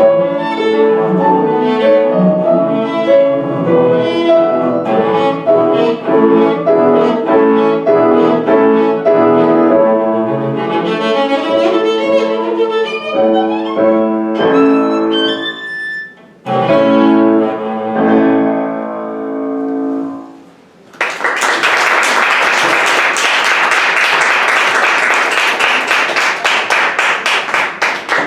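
A bowed string instrument plays a classical piece with piano accompaniment, ending about twenty seconds in; then the audience applauds.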